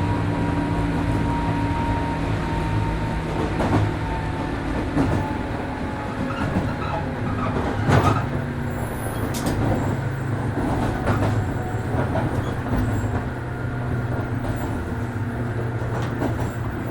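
JR 103 series 1500 electric commuter train heard from inside the car while running: a steady low hum from the motors and running gear, a higher whine that fades away over the first few seconds, and the wheels clicking sharply over rail joints a few times.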